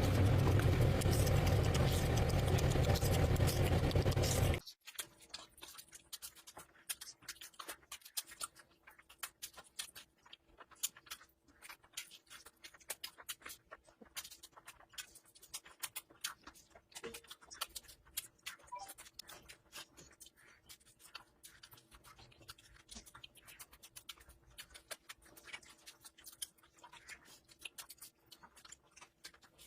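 Close-miked eating sounds: chewing with many small wet clicks and smacks while eating curry and rice. These come after a loud, dense noise that stops abruptly about four and a half seconds in.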